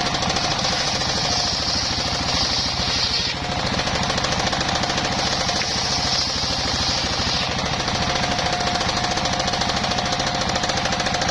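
Engine-driven circular sawmill running hard with a rapid pulsing engine beat and a steady whine. Twice, a harsh high-pitched rasp of the blade cutting through bayur wood comes in for a few seconds: once near the start and once in the middle.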